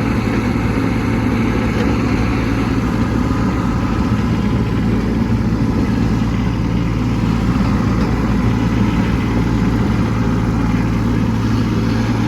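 Kubota B2601 compact tractor's three-cylinder diesel engine running steadily under load, pushing snow up a hill with the front plow down.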